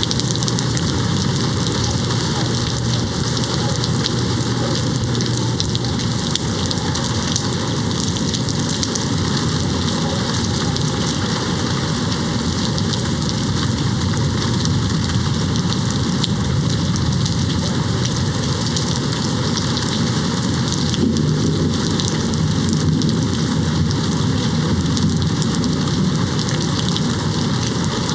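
Steady, heavy rain hitting a window, with low rumbles of distant thunder under it. One rumble swells about three-quarters of the way through.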